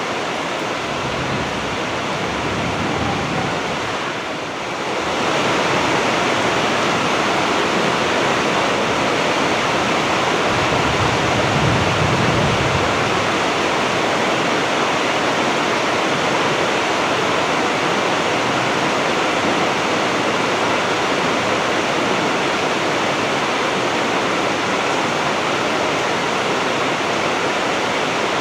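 Heavy rain falling, a dense, steady hiss that dips briefly about four seconds in and then holds even.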